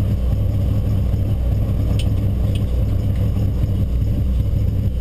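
Mitsubishi Lancer Evolution IX rally car's turbocharged four-cylinder engine idling steadily at the start line, heard from inside the cabin. Two faint ticks about two seconds in.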